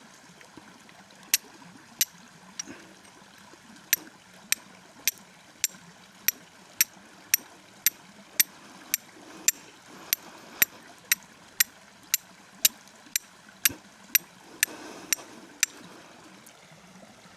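Flint and steel striking, a series of sharp metallic scrapes at about two a second, throwing sparks onto char cloth to catch an ember for a fire. A few scattered strikes come first, then a steady run that stops shortly before the end, all over the even rush of a stream.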